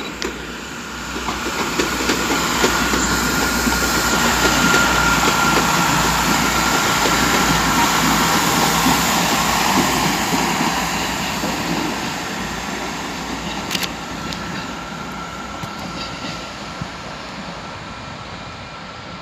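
Chiltern Railways diesel multiple unit passing close by on the rails. Engine and wheel noise rises to its loudest about five seconds in, then fades away as the train recedes, with a steady whine throughout.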